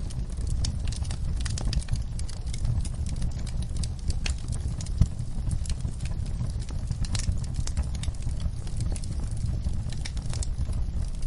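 Wood fire crackling: irregular small pops and snaps over a steady low rumble of burning, with one louder pop about five seconds in.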